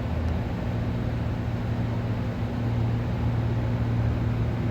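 Steady low mechanical hum with a faint hiss behind it, growing a little louder about halfway through.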